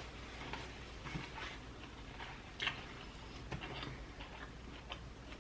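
Close-miked eating sounds: irregular wet mouth clicks and smacks of someone chewing seafood, a few a second, with one louder smack about halfway through.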